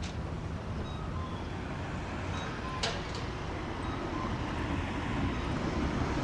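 City street ambience: a steady low rumble of traffic that grows slightly louder toward the end, with a few short faint high tones and one sharp click about three seconds in.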